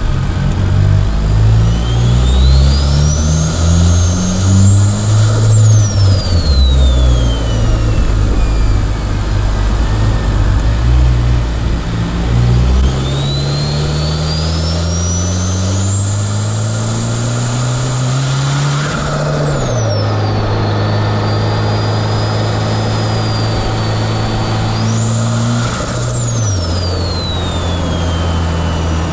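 Turbocharged four-cylinder car engine accelerating hard, its pitch climbing through each gear and dropping at the shifts, three times. A high turbo whistle rises with the revs and falls away after each shift.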